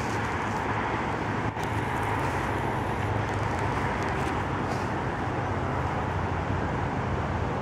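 Steady rumble of distant road traffic, an even wash of noise with no single vehicle standing out.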